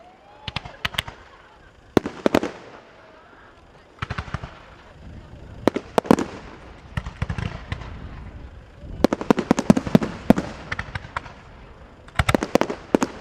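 Fireworks display: aerial shells bursting in a string of sharp bangs, each followed by a fading rumble. There is a dense run of rapid crackling reports about nine to ten and a half seconds in and another tight cluster near the end.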